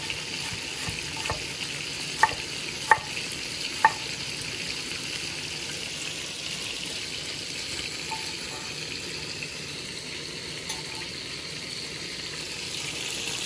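Steady sizzle of chicken pieces frying in oil, with a few sharp knocks in the first four seconds as a chef's knife cuts through red onion onto a wooden cutting board.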